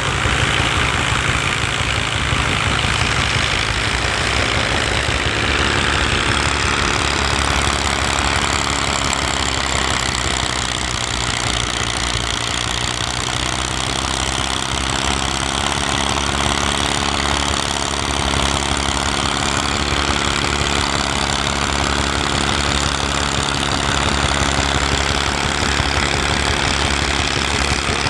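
Tractor engine running steadily, its note dipping and then rising again about halfway through.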